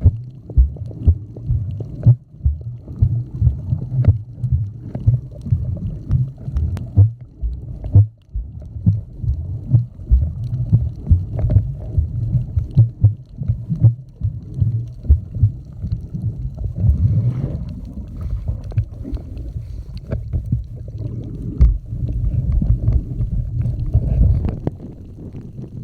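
Muffled, continuous low rumbling and knocking of water moving around a submerged camera, with irregular thumps and gurgles throughout.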